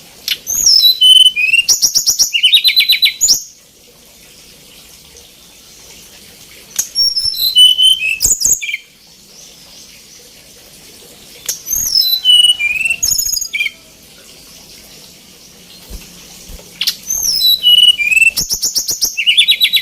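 A tledekan gunung songbird singing energetically in four loud phrases. Each phrase is a run of whistled notes sliding down in pitch, ending in a fast, buzzy trill.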